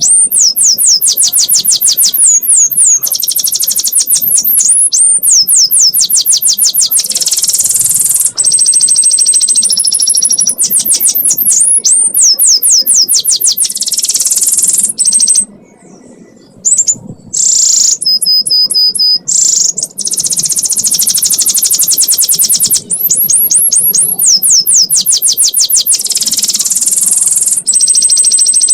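Canary singing a long chattering 'ngekek' song: very fast, high trills of repeated notes, with a few held whistled tones, broken by a short pause a little past halfway.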